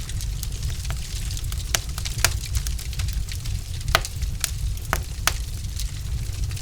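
Wood logs burning in a fireplace, crackling with irregular sharp pops and snaps over a steady low rumble of the flames.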